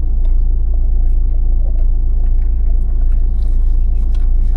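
Low, steady rumble of a vehicle engine idling, heard from inside the cab, with a few faint small clicks over it.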